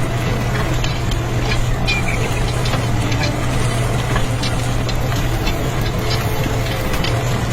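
A small motor running steadily with a low, even hum, with scattered light clicks and ticks over it.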